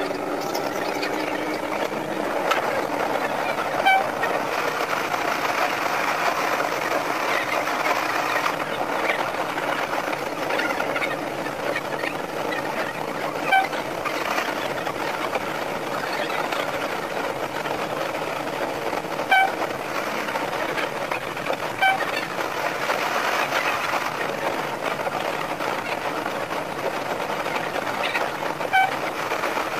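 Sanriku Railway 36-200 diesel railcar running on the line, its running and rail noise played back five times faster as a steady rush. Five brief high-pitched tones stand out every few seconds.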